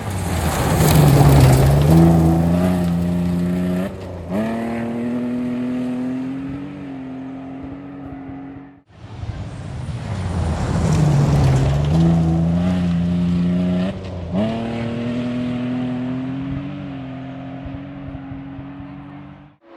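Rally car at full throttle on a gravel stage: the engine note climbs as it approaches in a spray of gravel, jumps sharply, then holds steady as it runs on and fades. It cuts off abruptly about 9 seconds in, and a second pass sounds the same.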